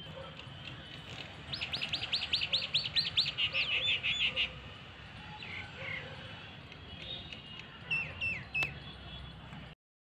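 A small songbird singing a fast run of about a dozen high, repeated notes, each sliding downward, about five a second, with the last few lower and closer together. A few short chirps follow near the end.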